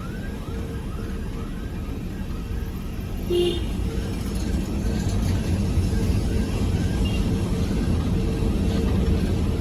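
Steady low rumble of a moving vehicle, heard from inside, with a constant hum running through it.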